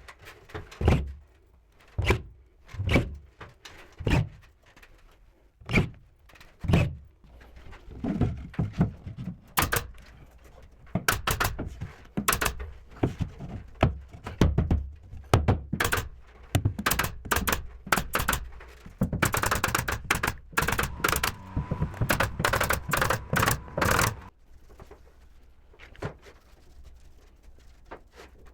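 Carpentry work on wooden boards: a series of separate wooden thunks and knocks about a second apart, then from about ten seconds in a fast, dense run of sharp clacks and knocks, which stops a few seconds before the end.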